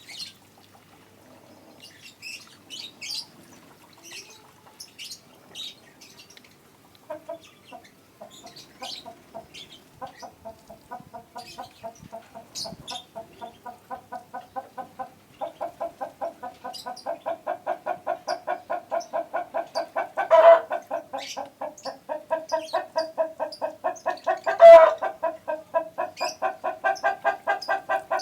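A chicken clucking in a fast, even run of short calls that starts about ten seconds in and gets louder past the halfway point, with a few louder squawks. Short high bird chirps come before the clucking starts.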